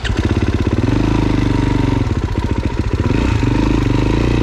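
Dirt bike engine running close by, its throttle blipped up a couple of times between stretches of idle.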